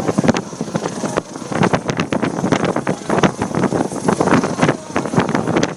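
Coast Guard helicopter hovering close overhead: rotor chop and engine noise mixed with rapid, uneven gusts of rotor wash buffeting the microphone.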